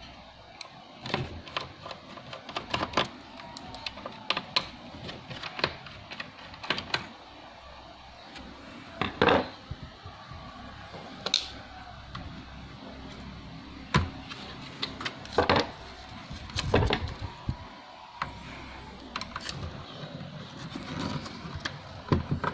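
Irregular small clicks, taps and knocks of hands and a screwdriver working inside an open laptop, taking off the heatsink, with a few louder knocks along the way.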